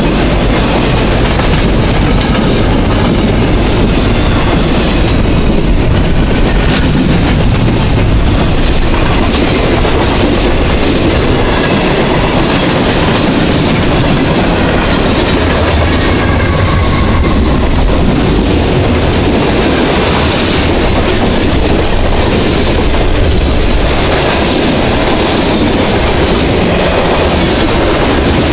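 A long freight train passing close by: double-stack container well cars, then covered hoppers and tank cars, rumbling steadily with the wheels clacking over the rail joints. Faint high squeals come and go.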